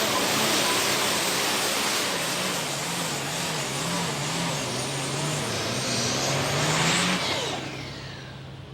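Diesel super stock pulling tractor running at full power under load, its engine note wavering as it drags the sled. About seven seconds in, the engine is cut back and the sound dies away with a falling whine.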